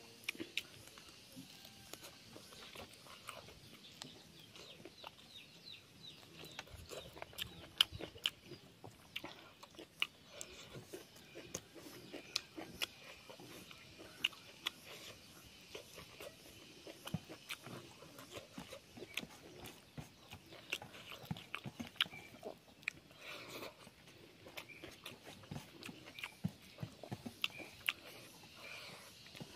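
A person chewing and eating pork and rice by hand, with many short, wet mouth clicks and smacks throughout.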